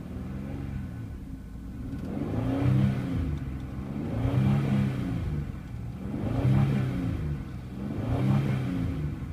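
2007 Chevrolet Equinox 3.4-litre V6 revved up and let back down about four times, a couple of seconds apart, revving nice and smooth. It runs with its drive belt cut off.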